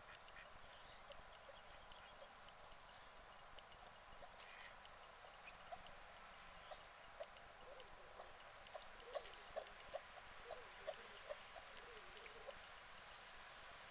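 Guinea pig chewing straw: faint crunching ticks over a steady hiss, coming about twice a second in the second half. Three short high chirps are spread through it.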